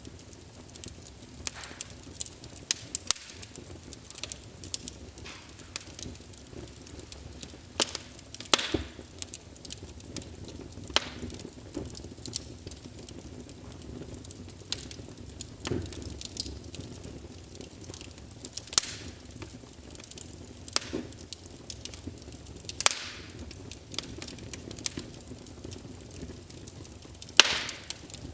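Wood fire crackling: a steady low hiss of burning under frequent, irregular sharp pops and snaps, with a handful of louder pops, the loudest near the end.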